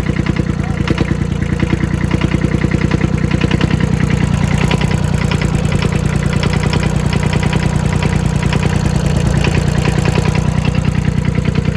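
Engine idling steadily with a rapid, even beat. It is running while being repaired for a knocking sound.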